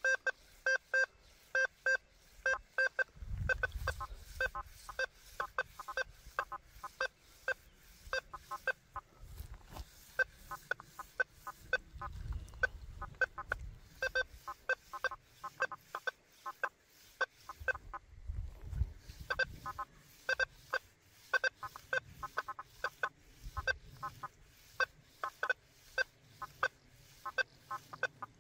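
Quest V80 metal detector's audio response: short beeps, several a second, at a few different pitches as the coil is swept back and forth over buried test targets.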